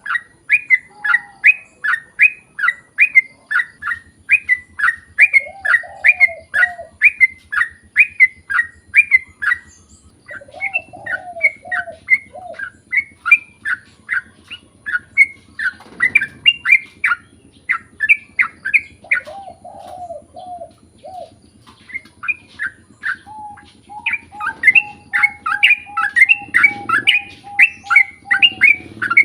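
Yellow-vented bulbul (trucukan) singing a long rapid-fire run of repeated chirpy notes, about three to four a second, with two short breaks. Lower, softer warbled phrases come in now and then.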